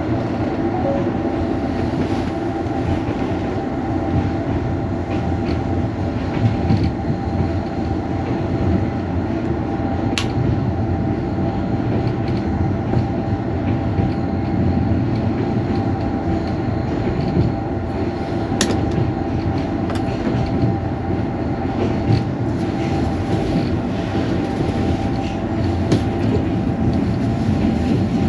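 Passenger train running at speed, heard from inside the carriage: a steady rumble of the wheels on the track, with a few sharp clicks.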